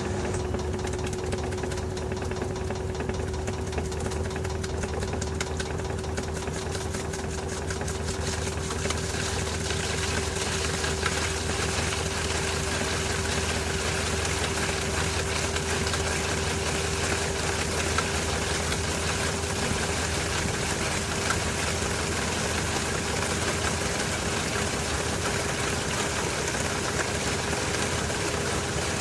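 LG TurboDrum WT-R852 washing machine running with a full load of bedding: a steady motor whine that creeps slowly up in pitch, over a hiss of machine noise that grows a little louder after about eight seconds.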